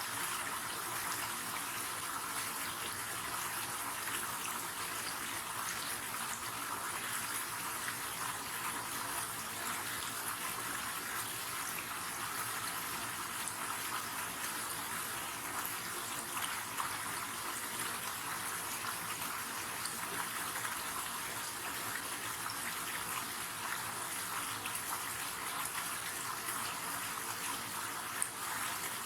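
River water flowing steadily, a constant even rush of noise with no break.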